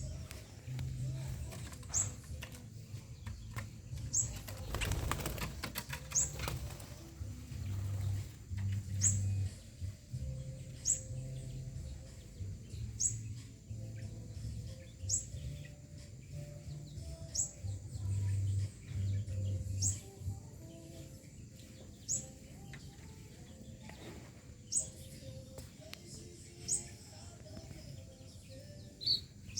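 A bird giving a short, high chirp about every two seconds, with a brief flurry of wing flaps about five seconds in and irregular low pulsing sounds underneath.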